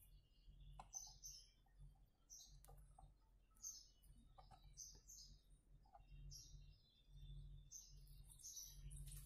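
Near silence with faint bird chirps, short and high, repeating about once a second, over a low steady room hum.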